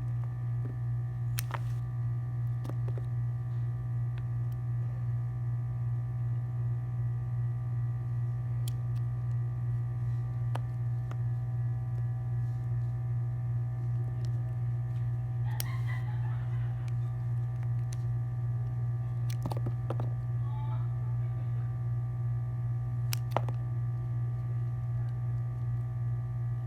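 Steady low hum with a fast flutter, with a few faint clicks scattered through it.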